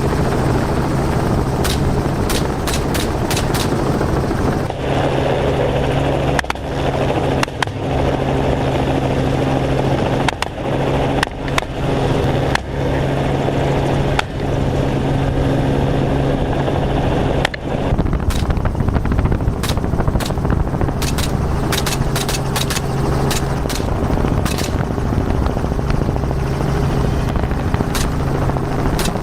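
Helicopter engine and rotor drone, steady with a constant low hum, and many short sharp cracks at irregular intervals from rifle shots fired during the hunt. The sound changes character at about five seconds and again near eighteen seconds, as if cut between takes.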